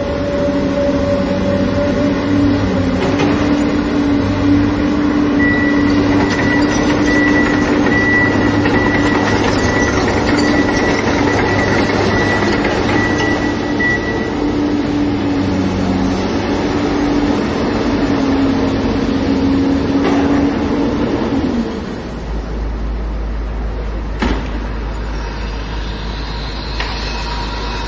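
Excavator engine running with a steady drone, a thin high whine over it for several seconds. About three-quarters of the way in, the sound changes abruptly to a lower, steadier rumble.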